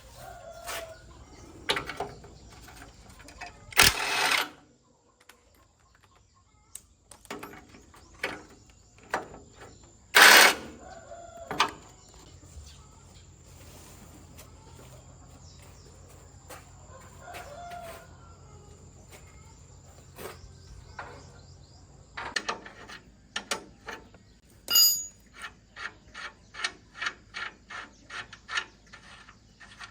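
Scattered metallic knocks and clanks of work on a truck, with two louder noisy bursts early on and a run of quick regular knocks, about two or three a second, near the end; chickens cluck and a rooster calls in the background.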